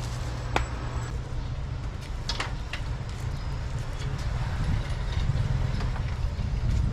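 Steady low rumble of a vehicle engine running, with a few sharp clicks and knocks over it.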